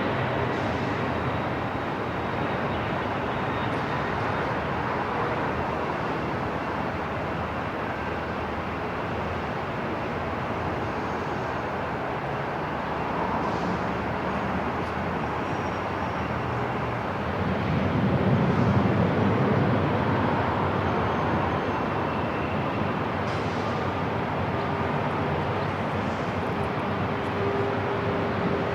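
Airport ambience: a steady wash of mechanical and room noise, with a low rumble that swells for a couple of seconds about two-thirds of the way through and a faint steady tone near the end.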